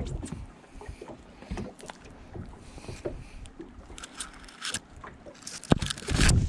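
Cast net being handled and thrown from a small boat: scattered light clicks and rattles, then near the end a sharp knock and a brief rush of noise as the net goes out.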